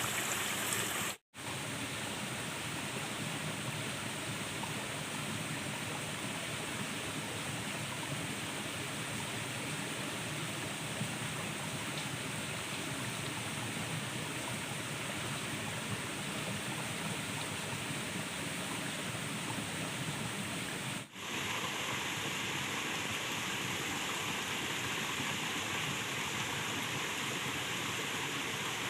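Steady rushing of flowing stream water. It cuts out for an instant twice, about a second in and again about 21 seconds in.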